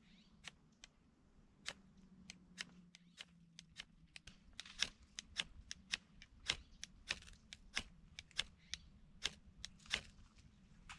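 A run of sharp clicks and pops while a campfire is being started: sparse at first, then coming about every half second or so from midway on.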